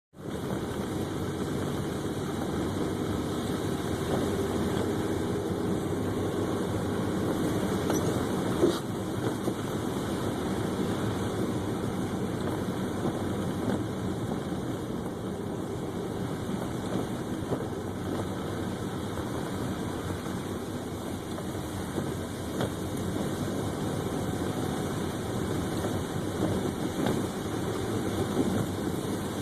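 Car driving, with steady engine and road noise heard from inside the cabin. A single sharp click comes about nine seconds in.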